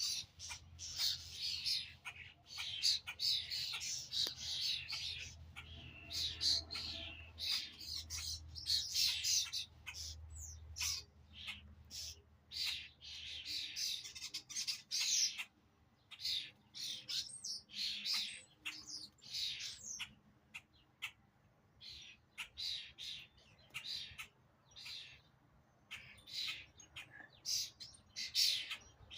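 Many birds chirping and squawking at once in dense, overlapping short calls, with no let-up.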